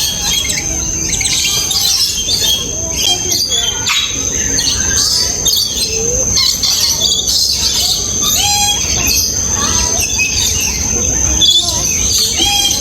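Many birds chirping and calling at once in an aviary, overlapping short calls at many pitches, over a steady high-pitched tone.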